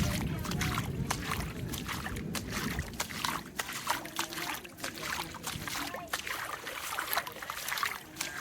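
Water dripping and splashing in many irregular taps after rain, with a low rumble that fades out about three seconds in.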